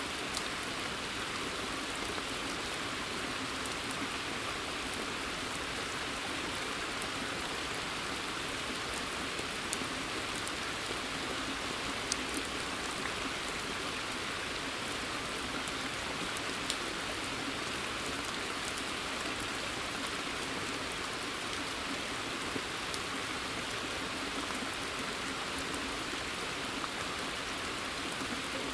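Steady rain in a forest, an even hiss with occasional sharper taps of single drops.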